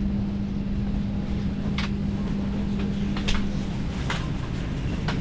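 Steady low hum inside a parked Boeing 737-600's cabin, with one constant droning tone, and several short sharp clicks and knocks spaced about a second apart.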